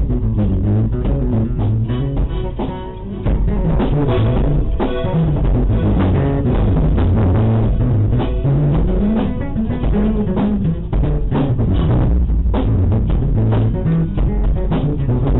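Band music: guitars, bass guitar and drum kit playing a steady beat, getting louder about three seconds in.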